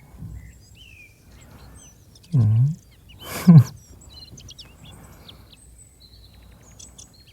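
Faint chirping birdsong runs throughout. About two seconds in there is a brief low hum from a man's voice, and a second later a louder, breathy voice sound that falls in pitch.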